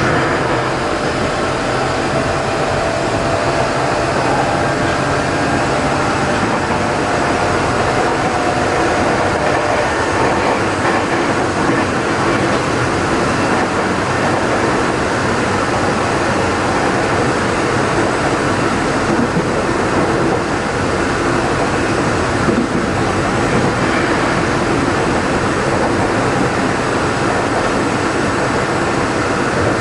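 Interior running noise of a Tokyo Metro 03 series chopper-controlled electric train at speed: steady wheel and motor noise, with a faint tone that fades out about ten seconds in. The car's traction motor makes a slight abnormal noise.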